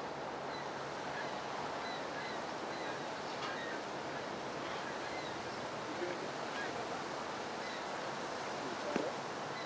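Steady rush and churn of water in a canal lock chamber filling to raise a ship.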